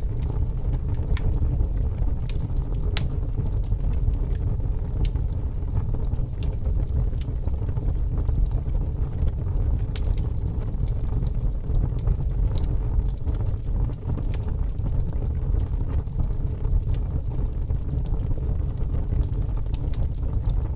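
Fire burning, with a steady low rumble and scattered sharp crackles and pops.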